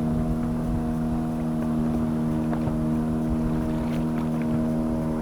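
Boat motor running at a steady speed: an even, unchanging hum over a low rumble, with a few faint clicks.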